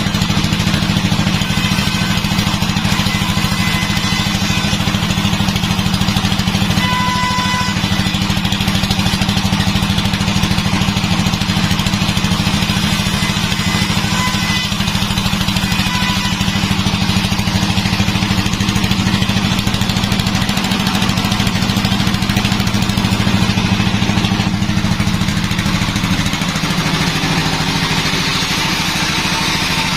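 Sawmill engine running steadily, a constant low drone that hardly changes in pitch or level.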